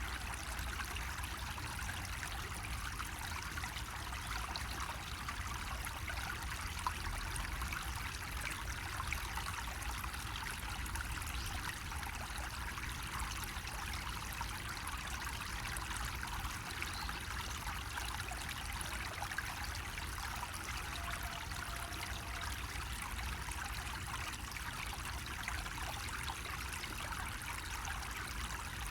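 Water trickling steadily from a bamboo spout, an even, unbroken running-water sound with a low rumble underneath.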